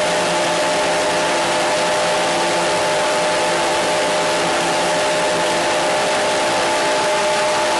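Radio static: a steady, loud hiss with a few faint steady tones running through it, unchanging throughout.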